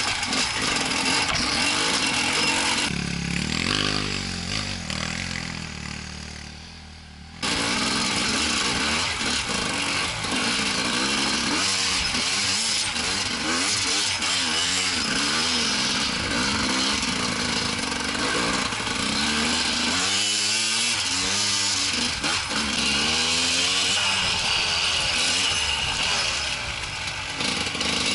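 Enduro motorcycle engine heard close up from the bike, revving up and down over and over as it climbs and rides a rough forest trail. About three seconds in the engine fades and drops in pitch, then comes back loud and abruptly a few seconds later.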